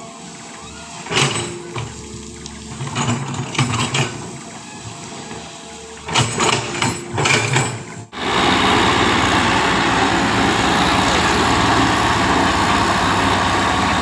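Heavy truck engine noise, with several loud short surges over the first eight seconds. About eight seconds in it cuts abruptly to a louder, steady running noise.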